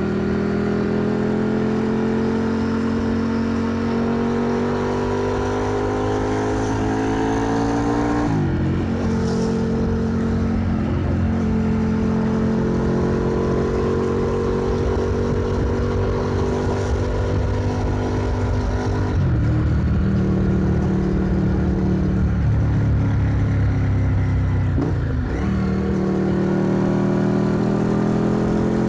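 Motorcycle engine heard onboard while riding, its pitch climbing slowly as it pulls in gear. There are abrupt drops in pitch at gear changes, about 8 seconds in, around 19 seconds and again near 25 seconds, before it climbs again.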